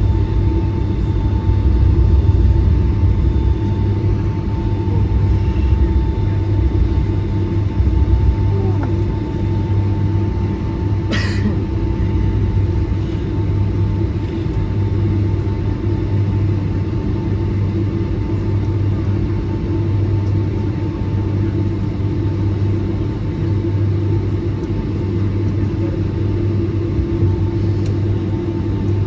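Steady low rumble and hum inside the cabin of a Boeing 757-200 taxiing after landing, with its engines at idle. A single sharp click about 11 seconds in.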